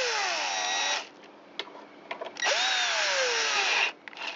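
Power drill-driver running bolts into a small-engine carburetor, in two runs of about a second and a half each, the motor's whine dropping in pitch as each bolt draws in.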